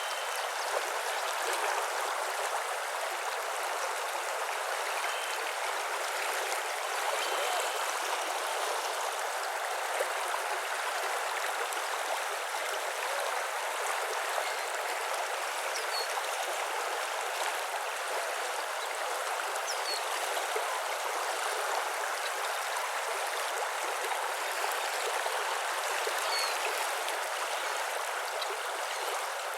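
Steady rush of flowing water, with a few faint, brief bird chirps.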